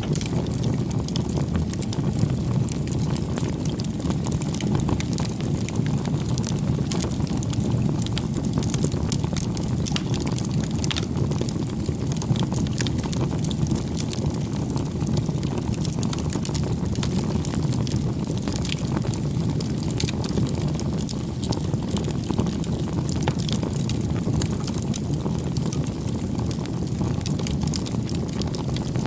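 Wood fire burning: a steady low rush of flames with frequent small crackles and pops scattered throughout.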